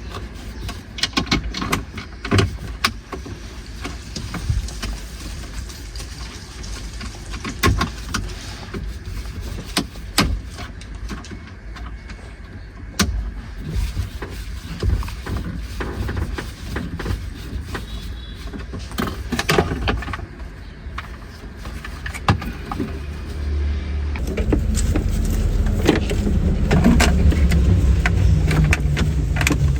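Knocks and clicks of work on a car over a low rumble. About four-fifths of the way through, a louder, steady low running sound sets in, typical of the car's engine running.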